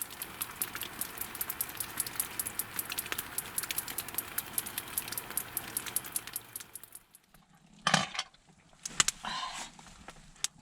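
Wood fire crackling and hissing in a fireplace, with dense snaps, which cuts off after about seven seconds. Two sharp clattering knocks follow about a second apart, with a brief rush of noise after the second.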